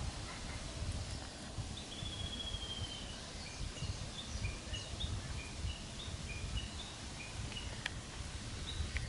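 Birds calling in short, clear high chirps: one longer note, then a run of brief repeated notes. Under them, a steady low rumble, with a single sharp click near the end.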